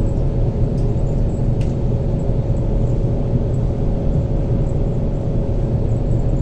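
Passenger train running at speed, heard from inside the carriage: a steady low rumble with a constant hum, and a couple of faint clicks.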